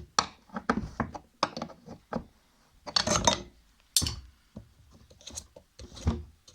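Hand tools and metal machine parts being handled: a series of irregular sharp clicks, taps and knocks, with a short rattling cluster about three seconds in.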